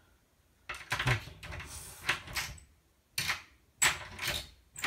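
A key being worked in a door lock: several bouts of metallic rattling, clicking and scraping as the key is jiggled and the keyring jangles, the sharpest clatter about four seconds in.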